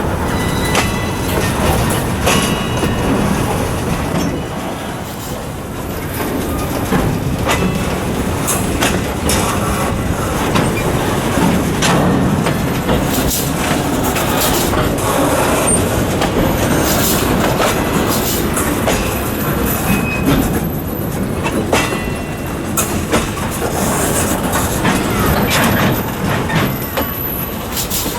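Freight train rolling over very poorly maintained track, its cars and wheels clanking and banging irregularly over rough rail joints, with a few brief high wheel squeals.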